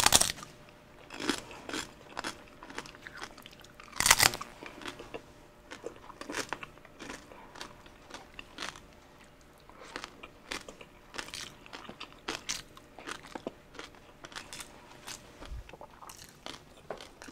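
Close-up crunching as crispy roasted pig (lechon) skin is bitten and chewed: a loud crunching bite at the start and another about four seconds in, then many smaller crisp chewing crunches.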